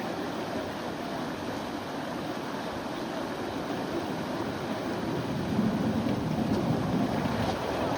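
River water lapping and rushing around a bamboo raft as a steady wash of noise, swelling a little about five seconds in.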